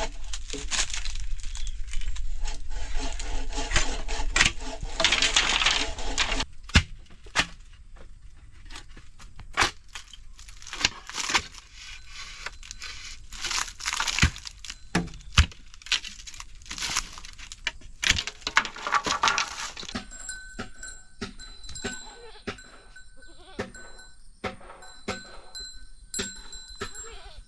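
A goat bleating, one long bleat over the first several seconds and another shorter one later, amid scattered sharp knocks and taps.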